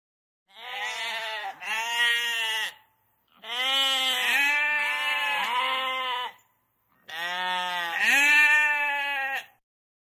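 Sheep bleating: long, wavering calls in three stretches with short pauses between them.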